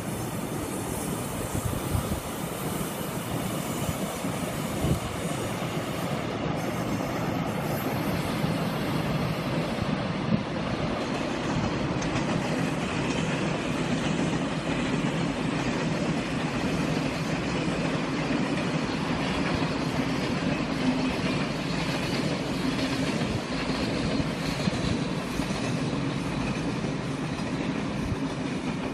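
Korail electric commuter trains running along the track: a continuous steady rail noise of wheels on rails, with a few sharp knocks in the first few seconds.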